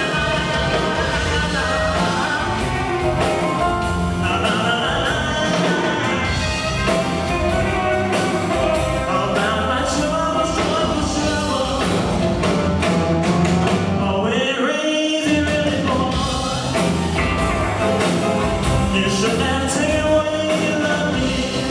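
Live rock-and-roll band music with a sung vocal line. About two-thirds of the way in, the band drops out briefly under a sliding held note, then comes back in.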